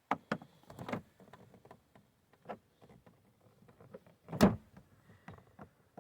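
Scattered short clicks and light knocks of tools and plastic door trim being handled, with one louder knock about four and a half seconds in.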